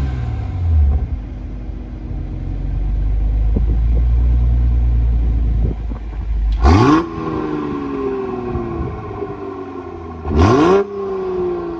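Tuned Toyota A90 Supra engine idling through a full Fi aftermarket exhaust with a high-flow catalytic converter, with a low rumble, then blipped twice. Each blip is a quick rise in pitch that falls back slowly to idle.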